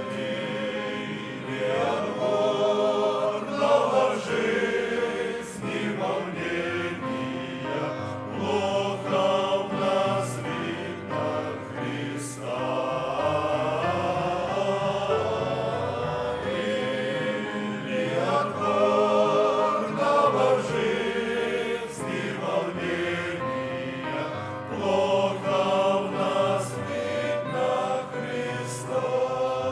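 Men's choir singing a hymn in several-part harmony, the voices held with vibrato in long phrases that swell and ease.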